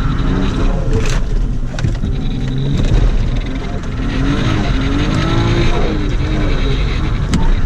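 Toyota JZX100's straight-six engine revving and falling back, heard from inside the cabin, with a sharp click about a second in and another near the end.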